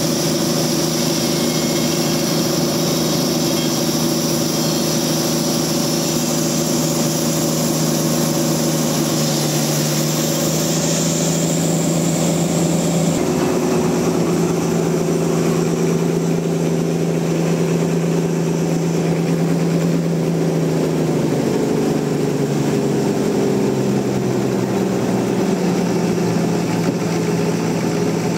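Sawmill machinery engine running steadily, with a high hiss that dies away a little under halfway through; the engine's pitch then shifts down in steps near the end.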